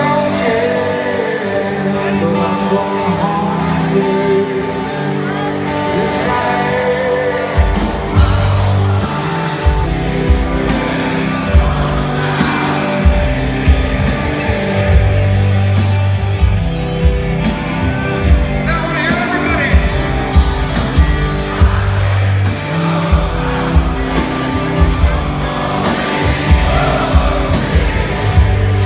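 Live rock band playing a slow song with a male lead vocal, heard in a large arena. About seven and a half seconds in, a heavy low end and a steady beat come in under the voice and guitars.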